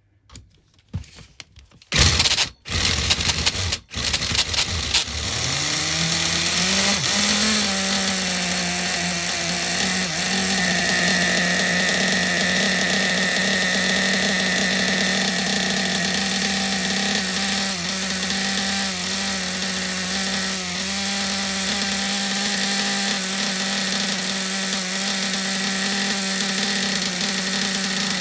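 Pro .50 RC nitro engine being started: a few loud short bursts of cranking, then it catches about five seconds in, its pitch climbs briefly and it settles into steady running.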